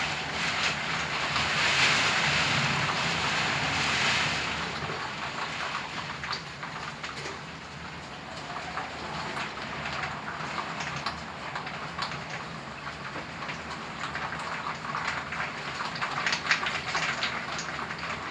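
Typhoon wind and rain outside an apartment window: a gust swells about a second in, peaks over the next few seconds and then eases to a steadier rush, with scattered sharp patters toward the end.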